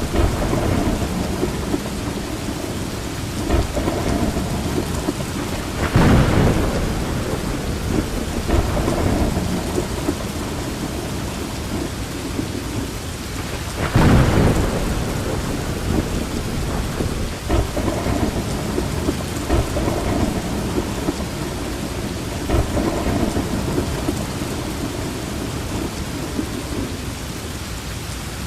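Steady rain falling, with thunder rumbling through it; two louder thunder peaks come about six and fourteen seconds in.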